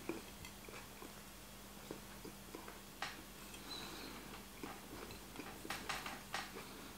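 Faint chewing and mouth clicks of someone eating a soft baked esfiha, with a few small ticks and rustles as the pastry is handled on a plate.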